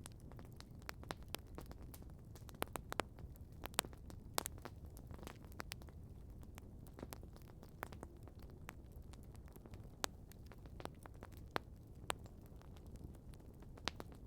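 Outdoor wood campfire crackling: irregular sharp pops and snaps, a few louder ones, over a low steady rumble.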